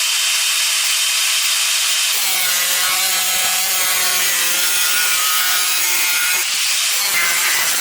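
Angle grinder cutting steel: a loud, steady grinding hiss with a motor whine underneath, its tone shifting about two seconds in as the disc bites into the metal.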